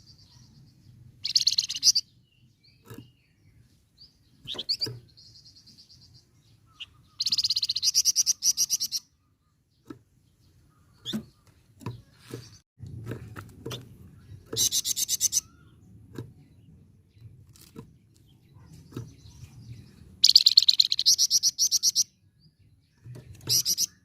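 Flamboyan songbird singing in loud, high, rapid rattling trills of a second or two each, repeated five times with short pauses between, over a faint low hum.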